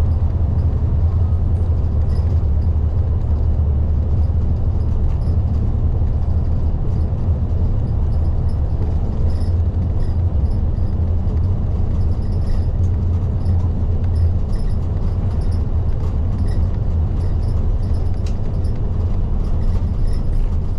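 LDG-KV234Q3 diesel city bus under way, heard from the front of the cabin: a steady, loud, low engine and road rumble with faint light rattles.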